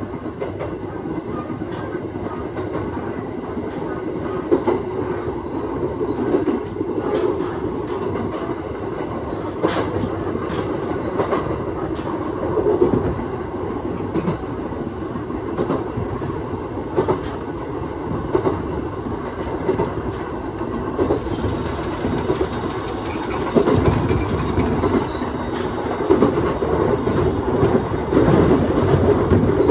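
Aoimori Railway 701 series electric train running along the line, heard from inside the car: a steady rumble with the wheels clicking now and then over rail joints, growing a little louder near the end.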